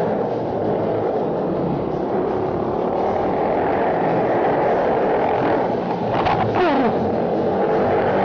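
Pit bike's small four-stroke single-cylinder engine running hard under throttle, with its pitch dropping sharply about six and a half seconds in as the revs fall.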